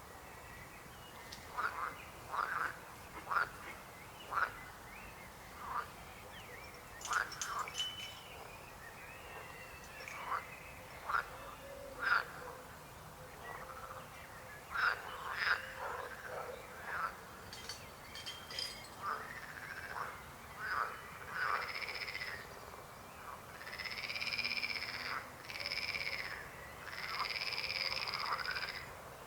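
A chorus of frogs croaking, with many short calls overlapping. From about two-thirds of the way in, longer calls of about a second each join in and grow louder.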